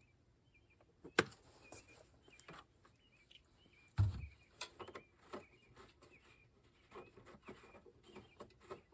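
Faint small-bird chirps repeating in the background, with a sharp click about a second in and a dull knock about four seconds in from handling the mower.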